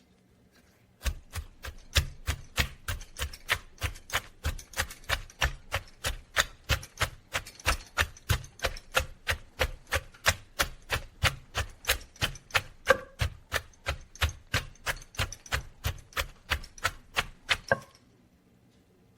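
Food being struck over and over in a steady rhythm, about three strokes a second, each with a low thud, starting about a second in and stopping near the end.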